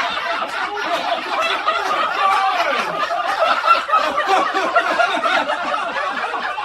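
People laughing hard after a joke, a dense run of chuckling and snickering that cuts off suddenly at the end.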